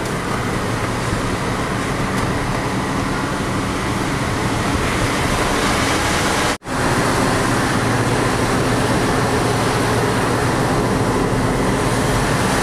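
Heavy truck running steadily on the road, a continuous engine drone with road noise. It cuts out abruptly for a split second about halfway through, then carries on the same.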